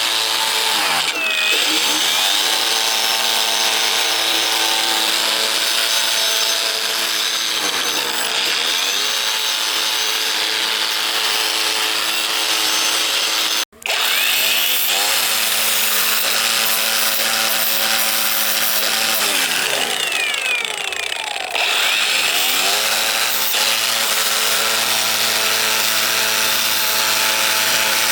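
Handheld electric power tool running, with its motor pitch dipping and recovering again and again as it is pressed into the work. The sound cuts out for a moment about halfway through.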